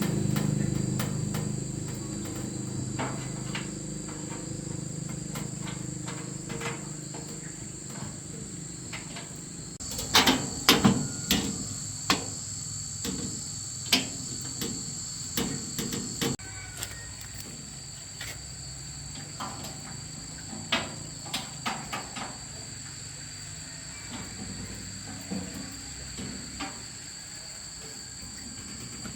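Insects trill steadily at a high pitch throughout, under a string of sharp knocks and clicks of hand tools on metal, densest in the middle. A low hum fades away over the first few seconds.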